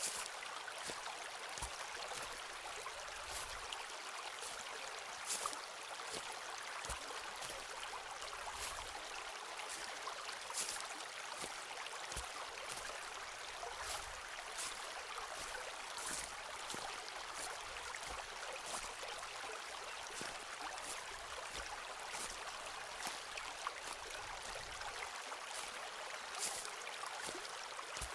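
Footsteps crunching on a forest floor, a light step every couple of seconds, over the steady rush of a flowing stream.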